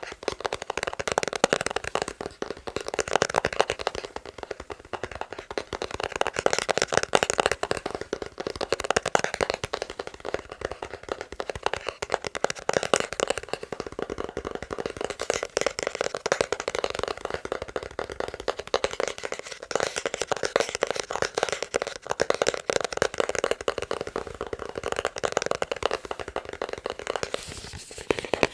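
Fast fingertip tapping on a box, a dense, rapid run of light taps with no break except a brief lull near the end.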